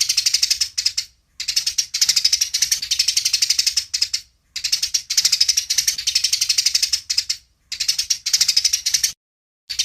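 Eurasian tree sparrows giving fast, agitated fighting chatter: rapid runs of short high notes in bouts of one to three seconds, with short breaks between.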